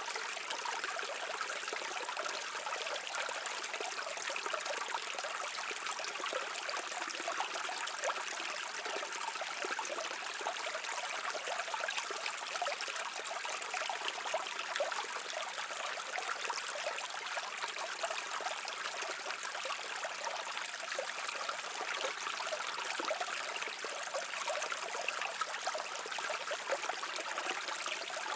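A shallow stream babbling and trickling over rocks, a steady, even water sound.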